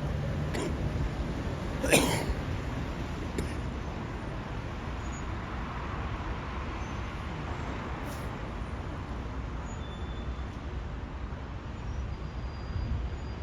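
Steady low rumble with wind noise on the microphone at a railway platform. One sharp clack about two seconds in and a few fainter clicks.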